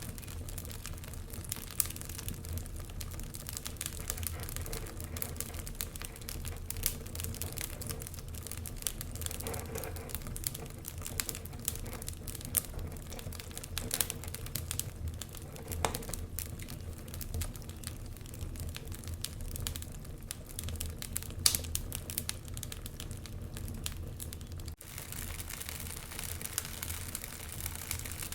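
Wood fire burning in a fireplace, crackling and popping irregularly over a low rumble of the flames, with one louder pop about three quarters of the way through. The sound briefly drops out for an instant near the end.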